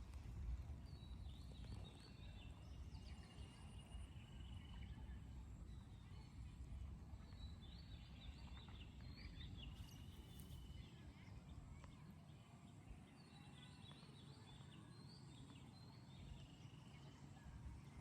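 Faint bird calls, coming in three short bouts of chirps and twitters, over a low steady outdoor rumble.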